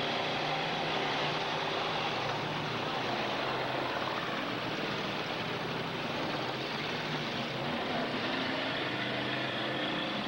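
Engines of a pack of demolition derby cars running and revving together, a dense, steady din.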